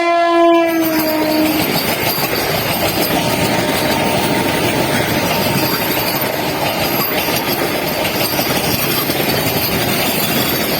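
An Indian Railways train's horn ends about a second in, its pitch dropping slightly as it fades. Then comes the loud, steady rush and rattle of the train's coaches passing close by on the track, with a faint high wheel squeal.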